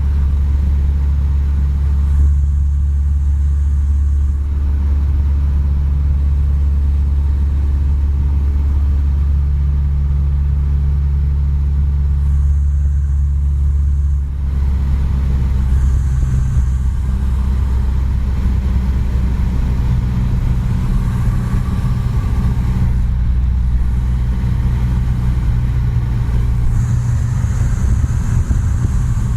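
Cessna 172's piston engine and propeller running at low power after landing, a steady low drone whose pitch shifts about halfway through.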